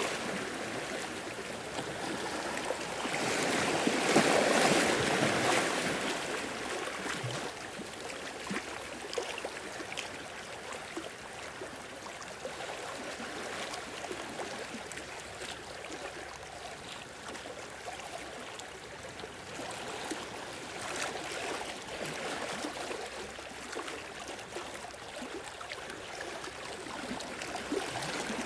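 Sea waves washing in and draining back, with one louder surge about four seconds in, then a steadier wash flecked with small splashes.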